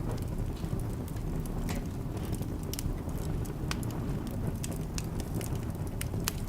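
Wood fire in a fireplace crackling, with sharp pops coming several times a second over a steady low rumble.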